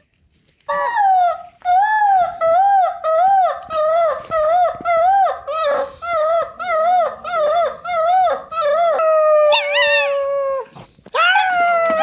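A dog howling in a run of short arching yowls that rise and fall, about two a second, then one long drawn-out howl that sags slightly. After a brief break the yowling starts again near the end.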